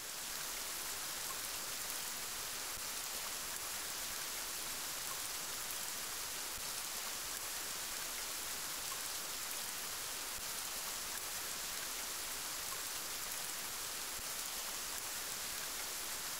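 Steady rainfall, a dense, even hiss of rain with no separate drops standing out.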